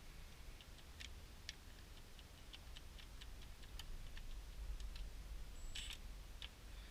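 Light, irregular metallic clicking of a ratchet turning the transmission pan bolts, a few clicks a second, over a low steady hum.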